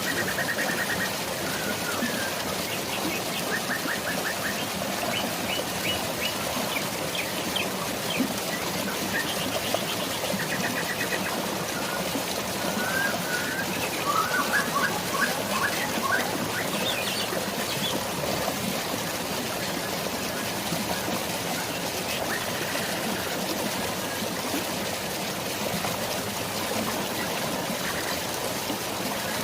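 Steady rush of flowing water with rain, and small birds chirping over it: several short rapid trills and chirps in the first half or so, then only the water.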